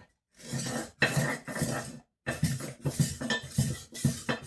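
A rolling knife sharpener rolled back and forth along a kitchen knife's edge on its smooth disc, making a run of rasping strokes, each under a second, with a short break about two seconds in.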